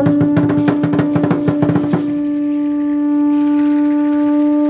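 Conch shell trumpet blown in one long, steady held note, over a fast roll of percussion strikes that stops about two seconds in.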